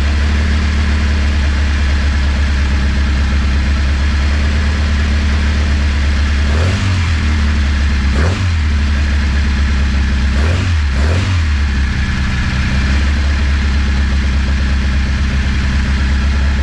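Freshly built 1330 cc BMC A-series engine in a Classic Mini running on its first start, idling steadily. The revs are blipped briefly four times in the middle, and the idle eases a little after that.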